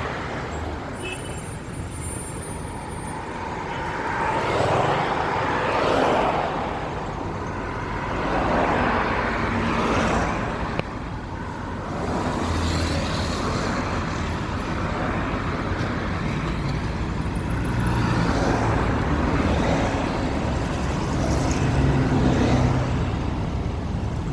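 City road traffic: steady engine and tyre noise, swelling and fading several times as vehicles pass.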